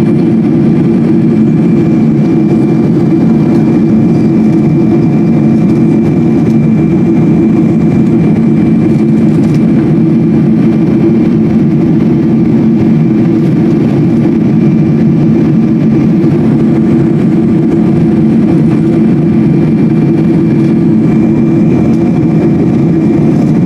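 Steady jet engine drone of a Boeing 777-200 heard inside the passenger cabin, a constant low hum with a faint higher whine and no change in pitch.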